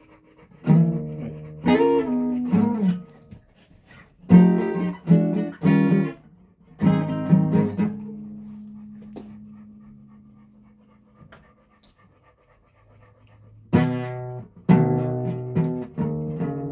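Guitar strummed in short groups of chords. About seven seconds in, one chord is left ringing and slowly fades for several seconds before the strumming starts again near the end.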